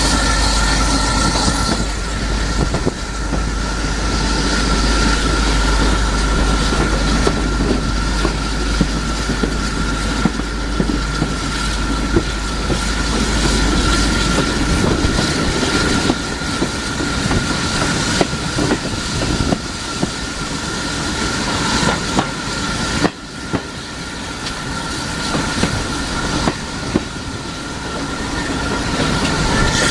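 Heritage railway coach running along the line: a steady rumble of wheels on track with ticks over rail joints and a thin, steady squeal from the wheels.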